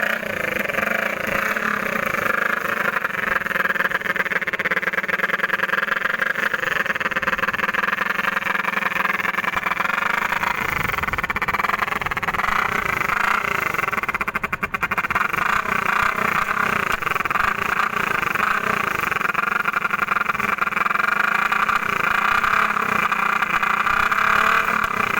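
Motorcycle running through a modified silencer, giving a steady, rapidly pulsing buzz with a brief dip about halfway through.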